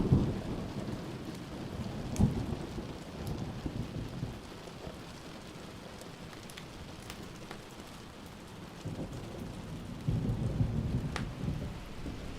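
Steady rain with thunder: a rumble dying away in the first second or so, a short clap about two seconds in, and another rumble from about ten to eleven and a half seconds in. Scattered sharp ticks sound over the rain.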